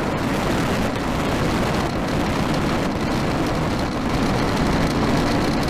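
Falcon 9 first stage's nine Merlin engines firing during ascent: a steady, dense rushing noise.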